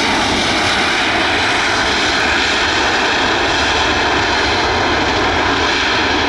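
Southwest Airlines Boeing 737 jet engines passing close by, a loud, steady rush of noise with several steady whining tones over it.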